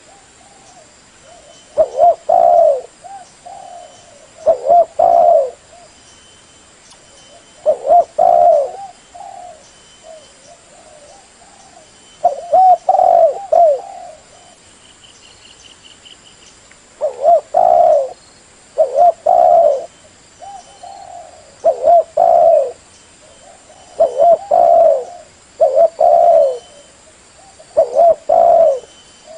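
Female spotted dove cooing: short phrases of two or three coos repeated about every two to three seconds. This is the female's call that bird keepers use to stir up and lure wild male doves.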